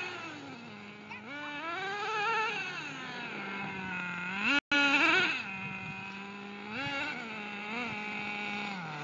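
RC truck's motor whining, its pitch rising and falling again and again as the throttle is worked. The sound cuts out for an instant a little past the middle.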